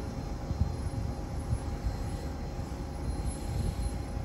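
Electric commuter train rumbling steadily by the platform, with a faint steady hum over the low rumble.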